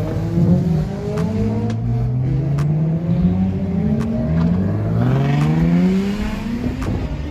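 Car engines revving hard, the pitch climbing and dropping back several times, the first climb loudest and the last fading near the end.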